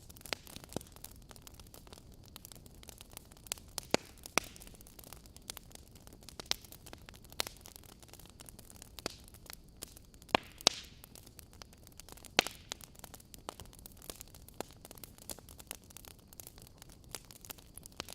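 Wood logs burning in a fire, crackling over a faint steady hiss with scattered sharp pops; a few louder snaps stand out, about four seconds in and again a little past the middle.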